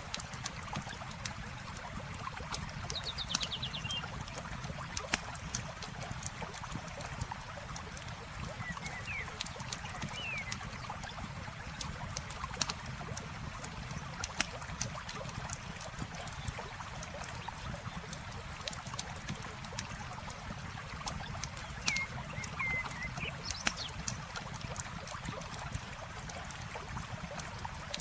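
Campfire crackling with frequent sharp pops over the steady trickle and wash of water. A few short bird chirps come through, about three seconds in, around ten seconds, and again a little past twenty seconds.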